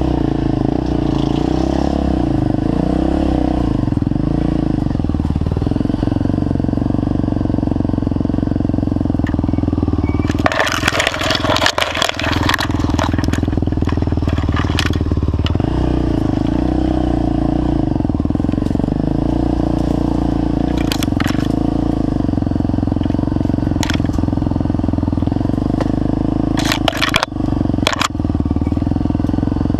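Trail motorcycle engine running steadily at an even speed. Bursts of crackling and clattering noise come about a third of the way in and again near the end.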